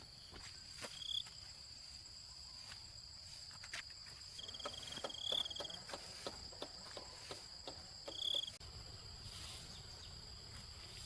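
Steady high-pitched insect drone, with scattered short clicks and knocks and a few brief high chirps, one of them a trill lasting about a second midway.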